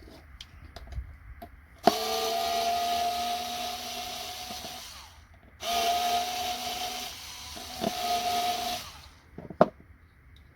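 Small electric screwdriver motor running in two bursts of about three seconds each, backing out the two screws on a computer connector; one of the screws does not come out. A sharp click follows near the end.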